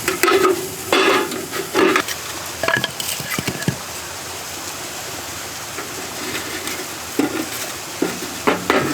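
Food sizzling in a pan while being stirred, with a utensil scraping and clinking against the pan. The stirring strokes come in a cluster at the start and again near the end, over a steady sizzle.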